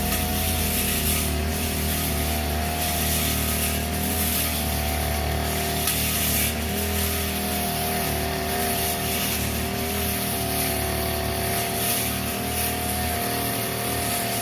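Two-stroke brush cutter engine running steadily at high speed while cutting grass, its pitch wavering slightly with the load.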